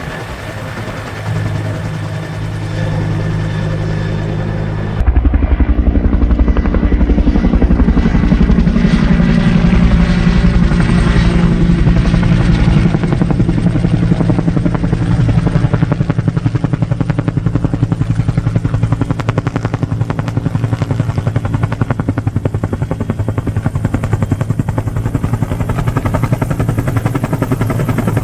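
Firefighting helicopter with a water bucket running close by: a steady engine hum, then about five seconds in the rotor sound suddenly gets much louder with a rapid, even blade beat that continues.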